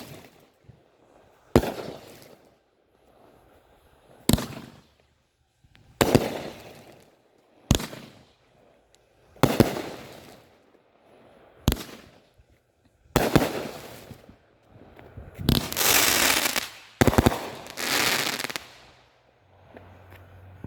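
Raccoon Fireworks 'Pucker Up' consumer fireworks cake firing its shots: a sharp report about every two seconds, each trailed by a short crackle. Near the end come two longer, louder stretches of dense crackling.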